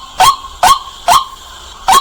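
White-breasted waterhen calling loudly: four short, sharp 'kwak' notes about half a second apart, with a slightly longer pause before the last.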